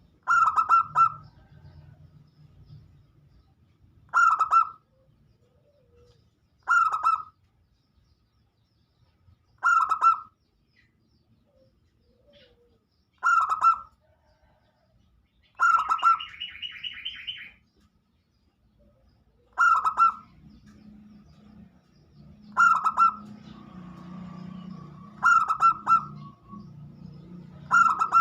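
Zebra doves (perkutut) cooing: short, clear, ringing call phrases repeated about every three seconds, about ten in all. A brief, higher, rapid trill sounds about two thirds of the way in.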